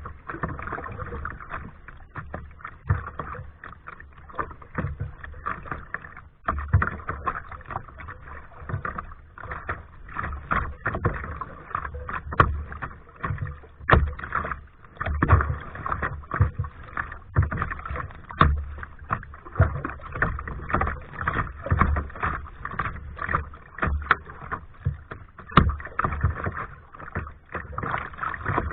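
Kayak paddling: paddle blades dipping and splashing in water in a steady run of strokes, about one a second, with water washing along the hull.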